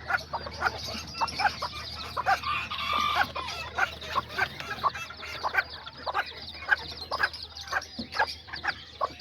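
Kikiriki bantam hens clucking, with many chicks peeping in quick, short, high calls.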